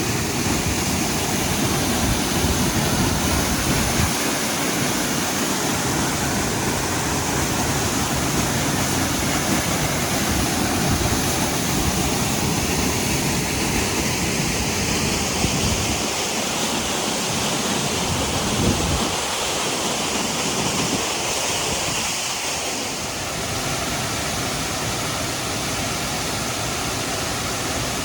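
Thunder River Falls gushing out of the cliff face: a loud, steady rush of falling water.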